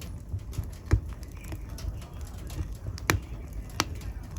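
Wood fire crackling in a fireplace: small crackles over a low steady rumble, with three sharper pops, one about a second in and two near the end.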